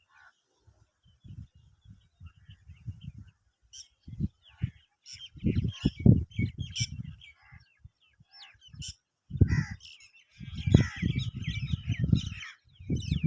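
Several birds calling and chirping, short high calls coming thick and fast, over repeated loud low rumbling buffets that come and go in gusts.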